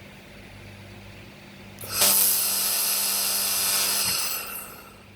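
Handheld laser welder firing a short test weld: a loud, steady, high buzzing whine starts about two seconds in, holds for about two seconds and then fades away, over the machine's steady low hum.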